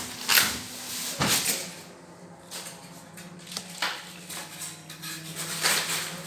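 Handling sounds while unpacking a new fridge: a few short rustles and knocks of packaging or the appliance being moved, over a faint steady hum.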